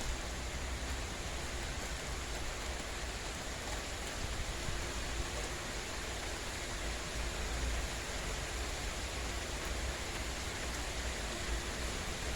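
Steady rain falling: an even hiss with no breaks and a low rumble underneath.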